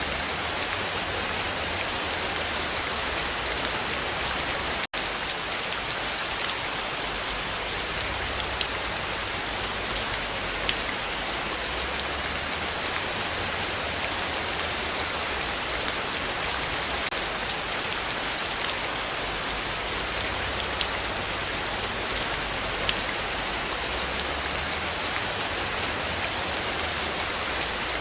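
Heavy rain falling steadily in a forest, a dense hiss with individual drops ticking through it. The sound cuts out for an instant about five seconds in.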